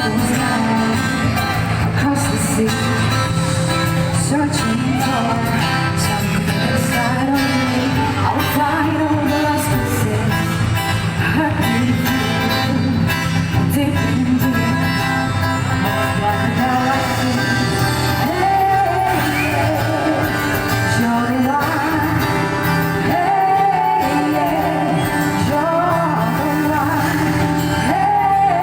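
A singer performing a pop song with a live band, the voice carrying over steady accompaniment and echoing as if in a large hall.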